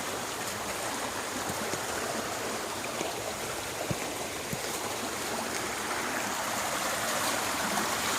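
Swollen creek running steadily, its flow raised by two days of heavy rain.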